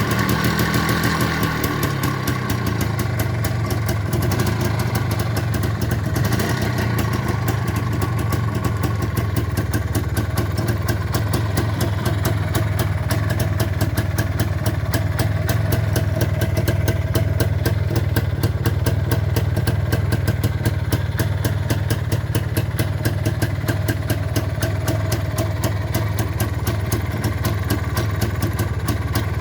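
Izh Planeta 5 motorcycle's single-cylinder two-stroke engine running cold at a steady idle, its firing pulses coming evenly.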